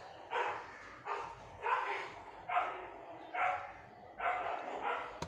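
A dog barking repeatedly, about seven barks in a steady rhythm, a little under a second apart.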